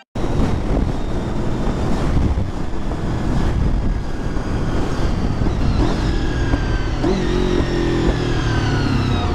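Motorcycle riding at highway speed: steady, loud wind rush and engine noise. In the second half a few faint tones slide slowly downward.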